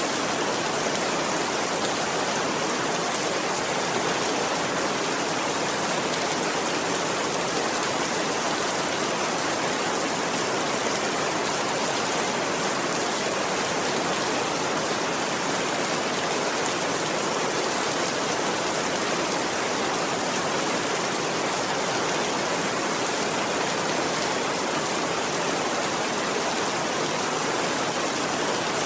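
Steady, even rainfall, a continuous hiss that does not change.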